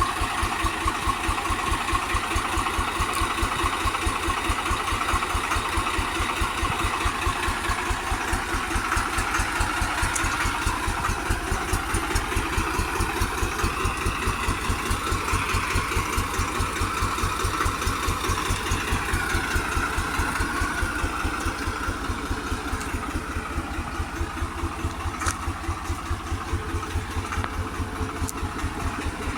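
Tractor engine idling with a steady, even low pulsing.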